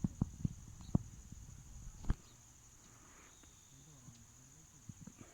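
A steady high-pitched insect drone, with several short low thuds in the first two seconds.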